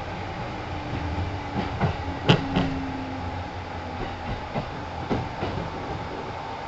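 Kintetsu 1010 series electric train running, heard from on board: a steady rumble with the wheels clacking over rail joints in pairs. The loudest clack comes a little past two seconds in, with more a couple of seconds later.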